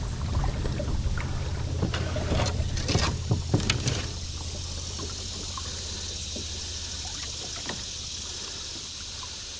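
High, fast-running river water rushing steadily. A few sharp knocks and clatters come in the first four seconds, then only the water.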